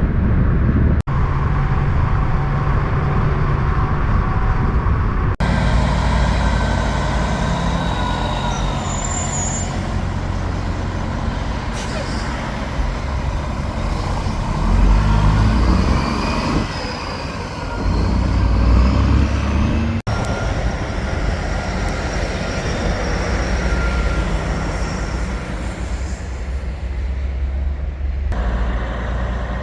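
Loud diesel semi-trucks running on the road, the engine note changing with abrupt jumps between several short clips. Partway through the pitch of the engine sound rises and falls.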